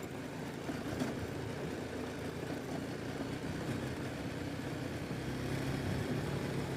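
A BMW G310 GS's single-cylinder engine running steadily at low speed while riding a rough dirt road, with wind and road noise.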